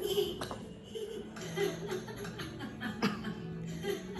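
A small child laughing and giggling in short bursts over background music from a children's TV programme.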